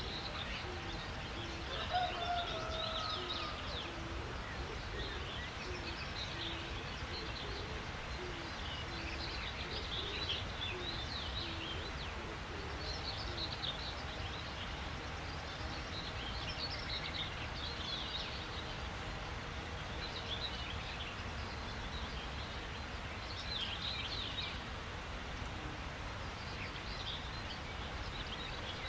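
Wild birds chirping and calling in quick high notes throughout. A low, short hooting note repeats about twice a second through the first half. A steady low background rumble runs underneath.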